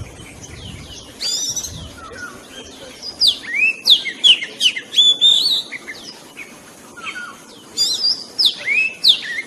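Oriental magpie-robin singing: loud, varied whistled phrases of rising sweeps and clear notes, coming in bursts about a second in, from about three to five and a half seconds, and again near the end. This is a lure song for trapping the bird.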